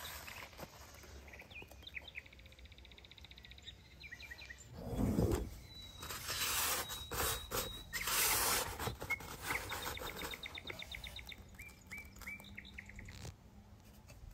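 Small birds chirping, with two fast trills of quick repeated high notes and a few short chirps. About five seconds in there is a low rumble, then several seconds of rough scraping or rustling noise, the loudest sounds here.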